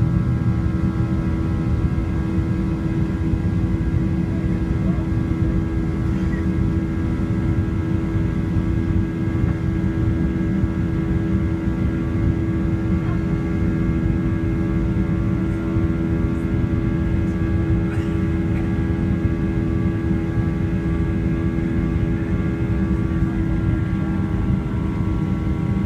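Steady cabin noise of an airborne Boeing 737-800, heard from inside the cabin: a low rushing of air with the even, many-toned hum of its CFM56 turbofan engines.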